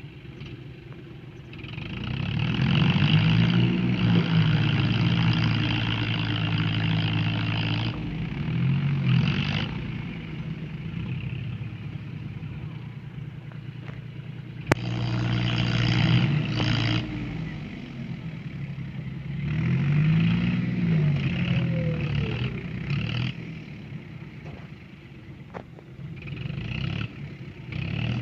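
Tractor engine revving hard in several long surges, pitch climbing and dropping again, as it works under load to pull through mud.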